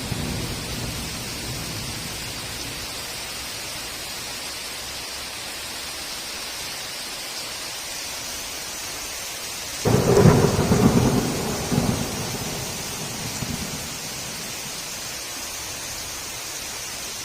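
Heavy rain falling steadily with an even hiss. A little past halfway, a sudden clap of thunder breaks in and rumbles for a couple of seconds before fading away.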